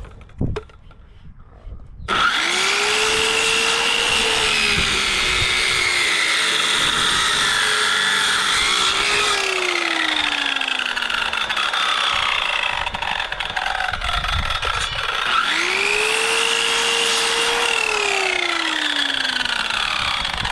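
Power tool's electric motor spinning up and working into wood for several seconds, then winding down as the trigger is released. This happens twice.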